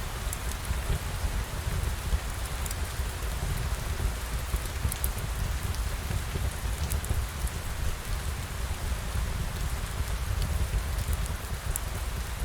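Steady rain falling, an even hiss over a deep low rumble, with scattered faint high clicks throughout.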